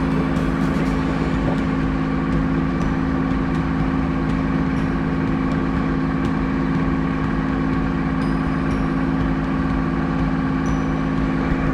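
Diesel engine running steadily, an even hum that holds the same pitch throughout.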